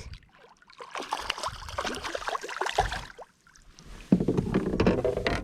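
A small bass being landed and handled on a kayak: a run of quick splashes, rattles and knocks against the hull. About four seconds in, a louder low droning sound starts and runs on.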